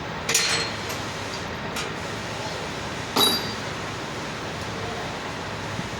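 Two metal-on-metal clanks about three seconds apart, each with a short ring, over a steady background hum, as parts are worked during a truck gearbox teardown. A fainter tap falls between them.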